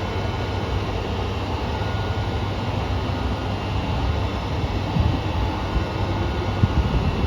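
KiHa 200 diesel railcar standing at the platform with its engine idling in a steady low rumble, carrying the abnormal noise that car KiHa 1551 made throughout that day, a sign of a developing fault that took the unit out of service the next day. A couple of brief knocks come about five seconds in and near the end.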